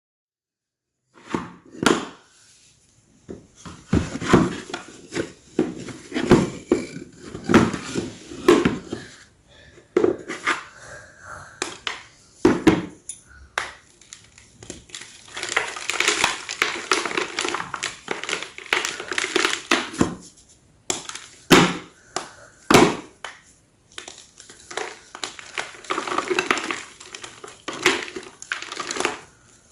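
Large slabs of gym chalk being crushed in a run of sharp crunches, with stretches of steady crumbling between the louder snaps.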